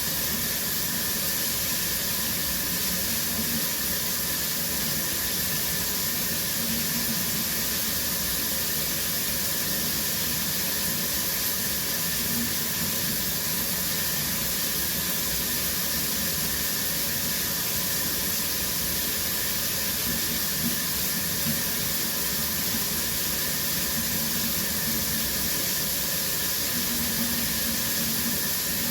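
Shower running steadily, its water spray making an even, unbroken hiss.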